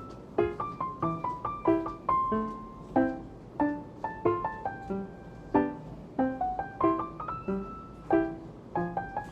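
Background music: a gentle piano melody, notes struck several times a second.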